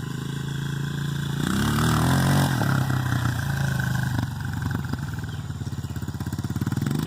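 Honda CRF125F dirt bike's single-cylinder four-stroke engine running. It revs up about a second and a half in, eases off after about a second, then runs on steady with small rises and falls in the revs.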